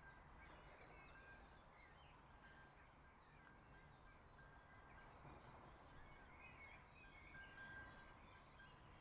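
Faint chirping of several small birds, with short repeated notes, over a low steady background hum.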